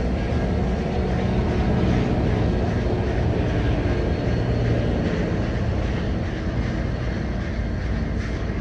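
A train passing close by with a steady, heavy rumble, with faint steady high-pitched tones over it.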